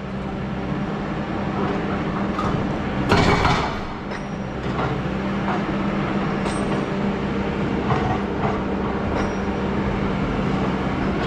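Excavator's diesel engine running at a steady pitch. About three seconds in there is a loud, short burst of scraping clatter, and a few fainter knocks come later.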